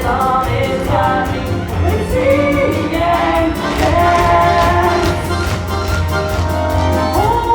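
Live show tune: a voice singing over a theatre orchestra playing with a steady beat, ending on a held note.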